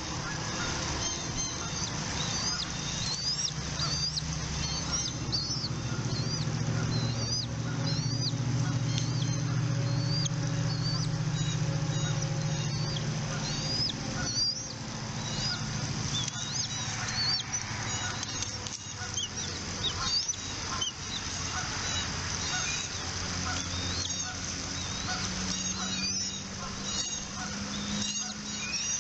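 Bald eagles at the nest calling: a long series of short, high, hooked chirps, about one or two a second, over a low rumble that eases off about halfway through.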